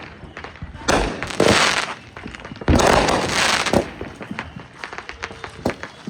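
Consumer fireworks going off: three loud bangs in the first three seconds, the last followed by about a second of dense crackle, then scattered small pops and crackles.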